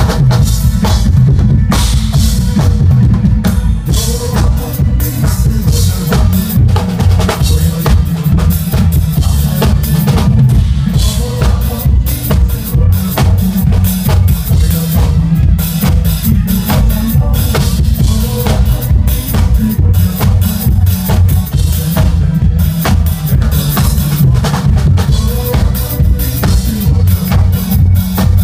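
Drum kit played live along to a recorded pop song: steady bass drum with snare and cymbal hits over the backing music.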